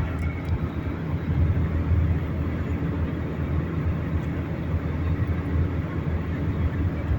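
Car's steady low rumble heard from inside the cabin.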